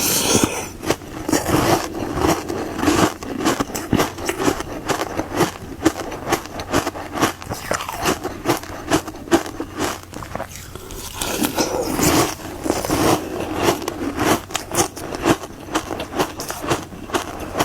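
Close-up crunching and chewing of a hard frozen ice treat: many quick, irregular crackling crunches as the ice is bitten and ground between the teeth, with a few louder bites.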